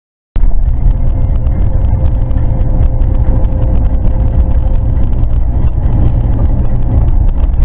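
Steady, loud low rumble of a car driving, heard from inside the cabin: engine and road noise. It cuts in abruptly about a third of a second in.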